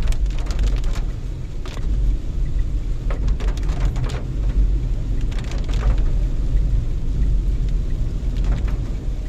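Renault Triber driving, heard from inside the car: a steady low road-and-engine rumble with scattered light ticks of rain on the body.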